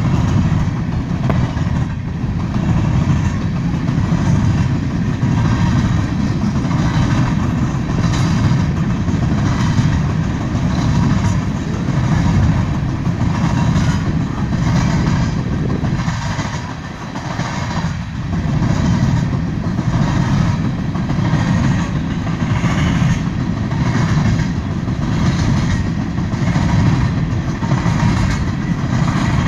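Freight train's hopper cars rolling past on the rails: a steady low rumble with a faint, evenly repeating clack of wheels over the rail joints.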